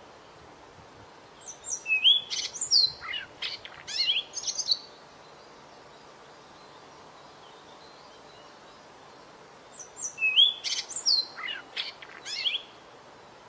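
White-rumped shama singing two short song phrases of quick, clear whistles and sweeping notes, the second phrase nearly a copy of the first, about five seconds apart, over a steady background hiss.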